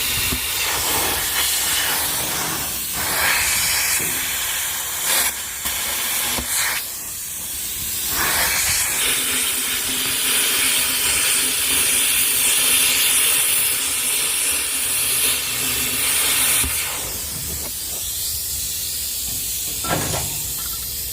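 Electric arc welding on steel: a steady crackling hiss, broken briefly about seven seconds in and quieter near the end.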